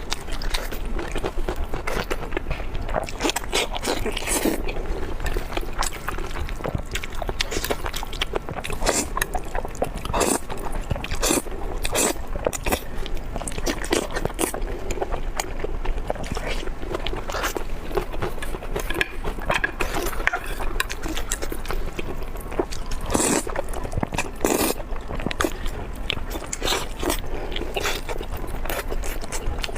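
Close-miked eating: biting and chewing with a steady run of sharp crunches and crackling mouth clicks.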